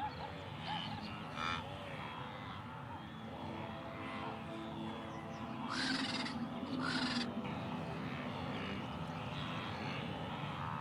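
Wild animal calls over a steady background: many short calls, with two louder, harsh calls about six and seven seconds in.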